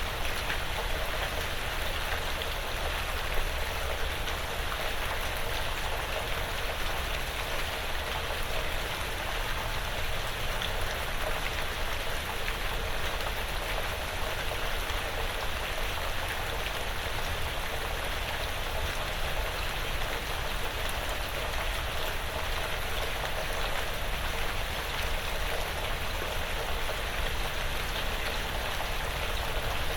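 Steady light rain pattering on a porch roof and the surrounding woods, an even hiss of fine drops.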